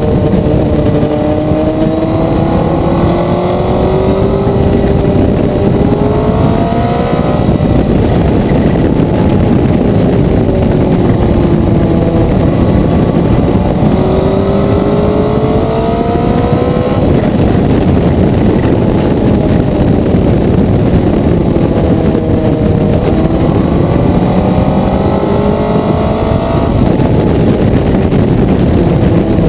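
Motorcycle engine heard from on board while riding, its pitch rising over several seconds as it accelerates, then dropping off as it slows. This happens about three times. A constant rush of wind noise runs underneath.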